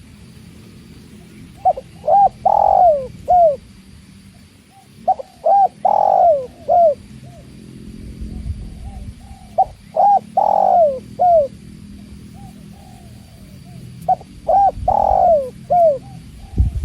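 Spotted dove (tekukur) cooing: four phrases about four seconds apart, each a few short coos around one longer, louder coo. Fainter cooing from another dove comes near the start and end.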